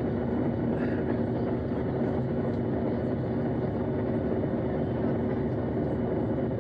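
Steady drone of a Ryanair Boeing 737 airliner's jet engines and airflow heard inside the passenger cabin, an even rush with a low hum.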